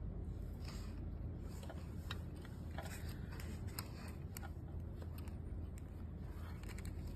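Light clicks and taps of small parts being handled, scattered irregularly over a steady low hum, as the YAG laser handpiece is worked on for a battery change.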